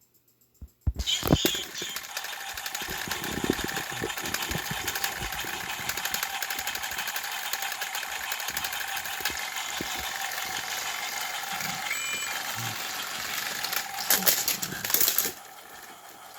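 Battery-powered toy train motors running with a rapid gear clatter. The noise starts suddenly about a second in and drops to a quieter hum near the end.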